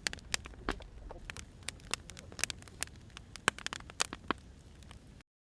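Wood fire crackling, with irregular sharp pops and snaps over a soft low rumble; it cuts off suddenly near the end.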